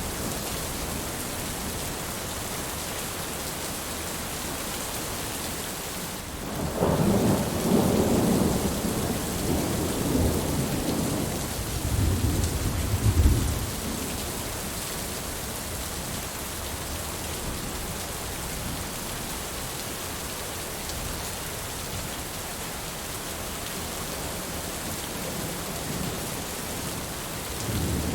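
Steady heavy rain hissing, with a roll of thunder rumbling in about a quarter of the way through and lasting some seven seconds before fading back to rain alone. A brief fainter rumble comes near the end.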